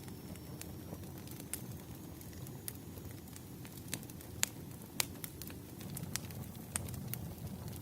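Wood fire crackling: irregular sharp pops and snaps over a low steady rumble, the loudest pops about halfway through.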